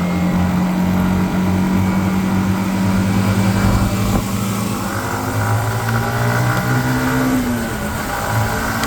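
Motorcycle engine running steadily under way. Its pitch rises about halfway through, then drops near the end as the revs change.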